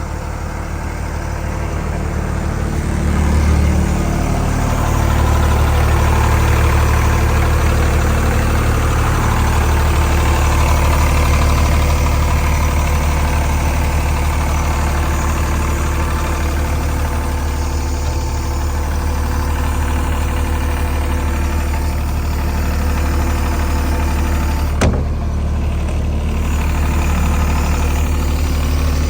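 Airman PDS130SC engine-driven air compressor's diesel engine running steadily, getting louder about three seconds in. A single sharp click comes near the end.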